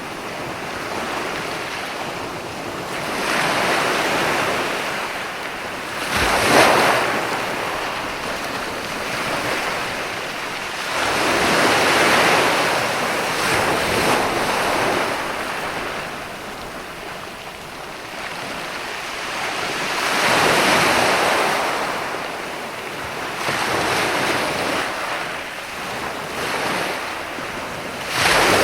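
Ocean waves breaking and washing up a sandy beach, swelling every few seconds, with a sharper crash about six seconds in and another near the end. Wind buffets the microphone.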